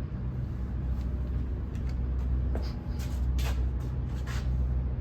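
A steady low hum, with a few short clicks and rustles about two and a half to four and a half seconds in.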